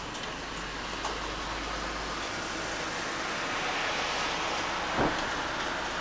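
Steady rain falling, an even hiss that swells a little in the middle, with one sharp drop or tap about five seconds in.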